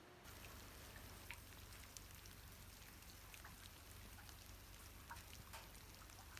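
Near silence: a faint steady low hum with irregular soft ticks scattered through it.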